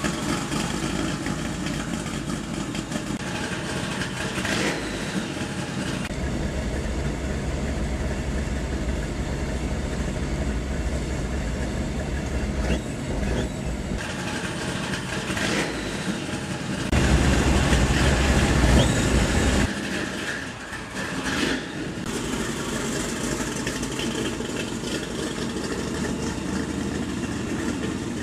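Ford Mustang Shelby GT500 'Eleanor' V8 running under way, heard from inside the cabin as a steady engine and road rumble. It gets louder for a couple of seconds about two-thirds of the way through.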